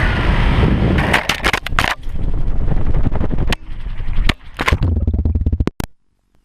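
A quadcopter crashing into a tree: its motors running, then a rapid series of sharp cracks and knocks as the spinning propellers strike branches. The sound cuts off abruptly near the end.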